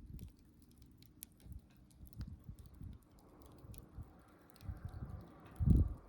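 Wood campfire crackling, with scattered sharp pops and ticks, and a soft hiss coming in about halfway. Low dull thuds run underneath, the loudest one shortly before the end.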